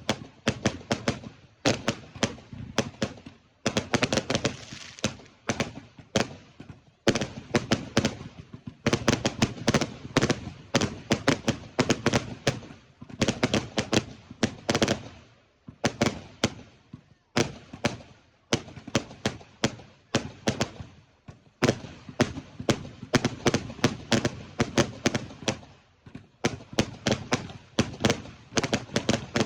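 Fireworks going off in quick, irregular volleys of sharp bangs, several a second, with brief lulls between volleys.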